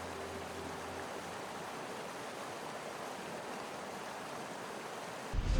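Steady rushing ambient noise with no clear events. Faint background music fades out in the first second or so, and music comes back in near the end.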